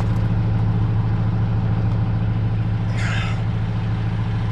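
A steady low machine hum, engine-like, runs throughout, with a short scraping rustle about three seconds in.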